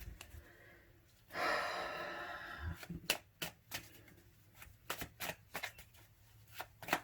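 A tarot deck being shuffled by hand: a soft rush of cards, then a quick run of sharp card snaps and clicks through the second half.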